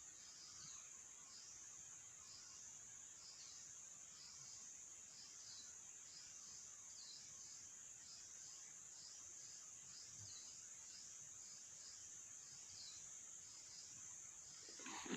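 Forest insects chirring in a steady, faint, high-pitched drone that pulses about twice a second. A short, louder sound comes right at the very end.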